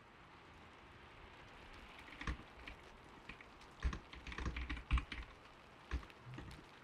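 Typing on a creamy-sounding mechanical keyboard: a single keystroke about two seconds in, a quick flurry of keys between about four and five seconds, then a couple of lone keys near the end. Gentle steady rain hisses underneath.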